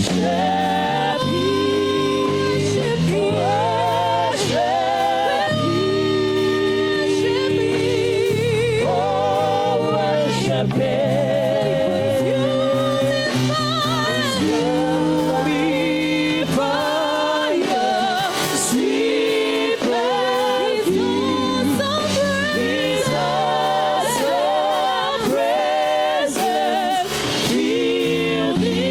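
Gospel worship music: singing with a choir over sustained instrumental chords, held steady with no pause.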